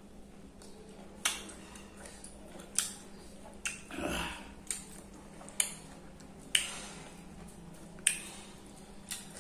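Mouth sounds of eating: sharp, wet clicks and smacks about once a second while chewing, picked up close on a clip-on microphone, with a short breath a little after four seconds.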